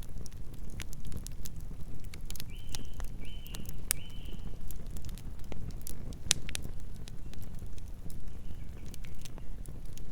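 Wood fire of burning logs crackling: sharp, irregular pops and snaps over a low, steady rumble. Three short, high-pitched chirps come between about two and four and a half seconds in.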